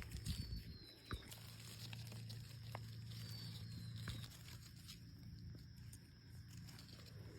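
Rustling and crackling in dry leaf litter, with scattered small snaps and footsteps, as mushrooms are searched for and picked by hand on the forest floor. Two faint falling whistles sound early on and again near the middle.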